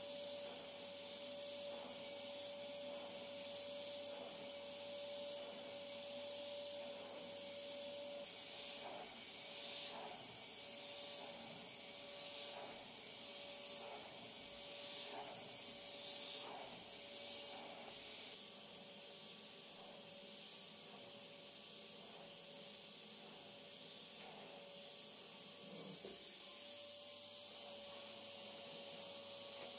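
Vacuum cleaner running steadily, with a rhythmic rubbing as the nozzle is pushed back and forth about once every second and a half through the middle of it.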